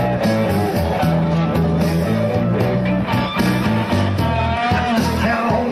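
Live blues band playing an instrumental passage between sung lines, with guitar to the fore over bass and a steady beat.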